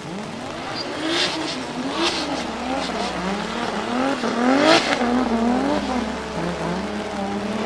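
Single-turbo 2JZ inline-six engine in a Toyota GT86 revving hard, its pitch climbing and dropping again and again under throttle. A few brief sharp sounds ride on top, the loudest about halfway through.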